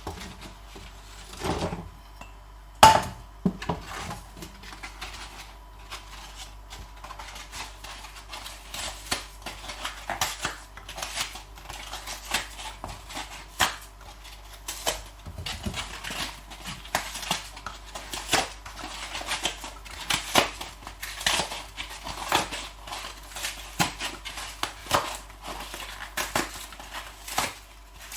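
Moulded paper egg cartons being torn by hand into small pieces: an irregular run of short rips and crackles, with one sharp knock about three seconds in.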